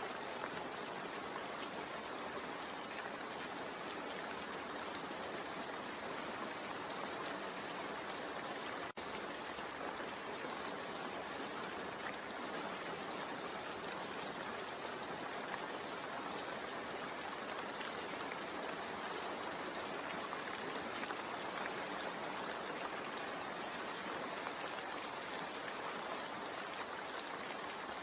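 Steady rain sound, an even hiss of falling rain, with a momentary dropout about nine seconds in.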